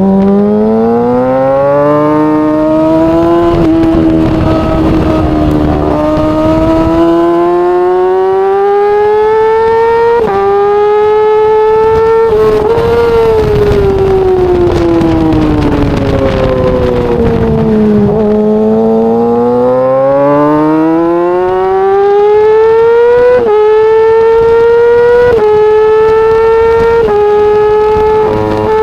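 Yamaha R6's 600 cc inline-four engine revving out on track. Engine speed climbs and falls repeatedly, with a long slowdown in the middle, then climbs again through quick upshifts near the end.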